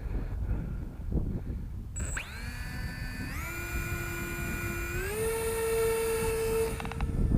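The model plane's battery-powered electric motor and propeller starting up about two seconds in with a rising whine, stepping up in pitch twice as the throttle is opened further, then cutting off near the end. Wind noise on the microphone runs underneath.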